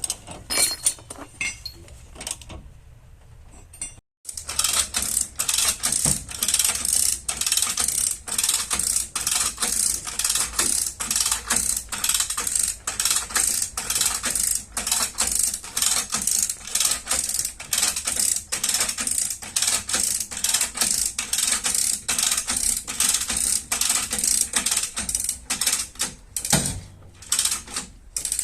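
Rapid, even metallic tapping or clicking of dent-repair tools working a car's sheet-metal body panel, about three strokes a second. It starts about four seconds in, after a few scattered taps and a brief gap.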